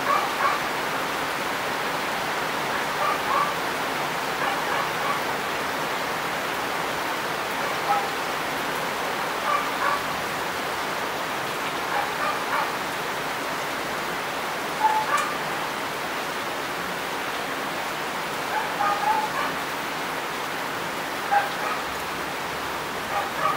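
Steady hiss of heavy rain, with short barks of a dog breaking through every few seconds.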